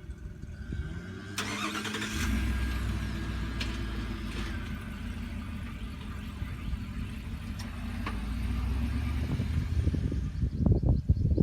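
An engine starts up and settles into a steady, low-pitched run, with irregular knocking noise near the end.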